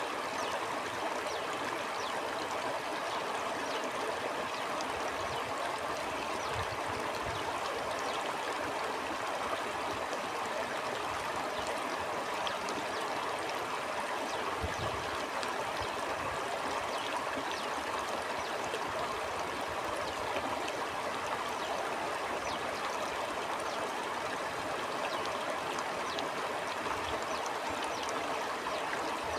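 Stream water flowing steadily over rocks, a continuous rushing with fine splashes and gurgles.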